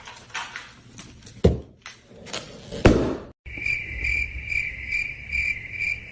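Scattered rustling and knocking with two heavier thumps. Then, after a cut, a steady high chirping that pulses about twice a second.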